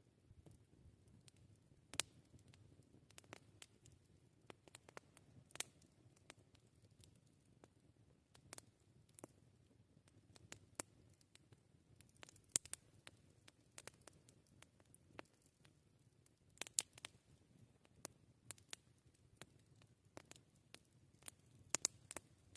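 Wood campfire crackling: irregular small pops and snaps, several a second, a few of them sharper and louder, over a faint low background.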